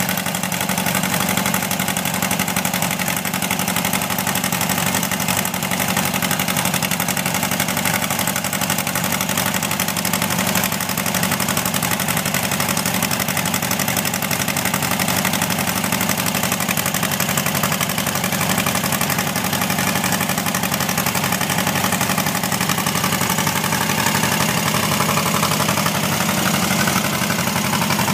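A newly installed engine running steadily at idle on its first run.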